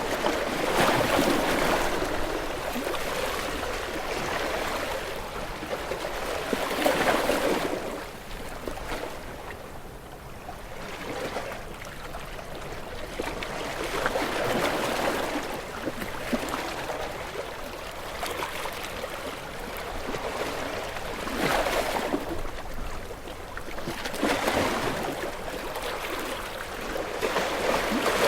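Gentle sea waves washing onto a beach: a rush of surf that swells as each wave breaks and fades as it draws back, about every four to seven seconds.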